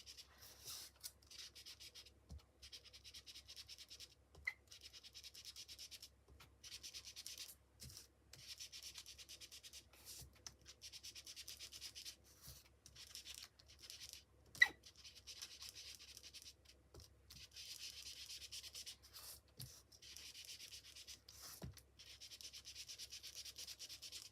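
Ink being rubbed onto the edges of a paper die-cut in quick, faint, scratchy strokes with short pauses between passes. A single sharp click a little past the middle.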